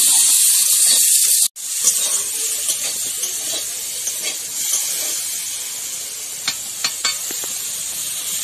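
Hog plum pieces frying in mustard oil in a wok, a steady hissing sizzle that cuts out for an instant about a second and a half in. A few sharp ticks near the end come from the metal spatula stirring against the wok.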